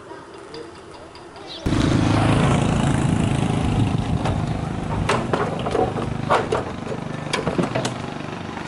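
An engine comes on abruptly about two seconds in and keeps running steadily, with several sharp clicks over it.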